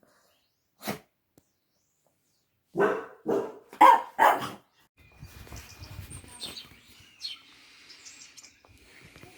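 A dog barking: one bark, then four quick barks about two seconds later. Faint bird chirps follow.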